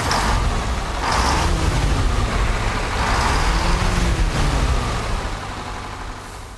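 Pickup truck engine running with a heavy low rumble, its pitch rising and falling twice as it revs, then fading away near the end.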